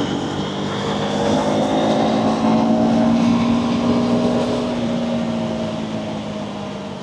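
Motorcycle engine running under way with wind rush on the mic. Its note climbs slightly and gets louder over the first three seconds, then eases down and fades toward the end.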